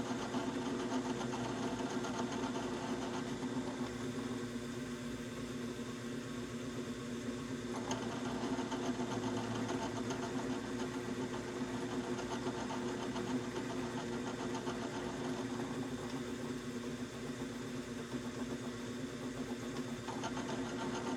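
A steady mechanical hum of a motor running, an unbroken drone that holds the same pitch throughout.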